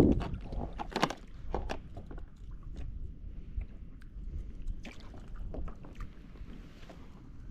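Water sloshing against a fishing kayak's hull, with scattered sharp knocks and clicks of gear against the hull, the strongest about a second in.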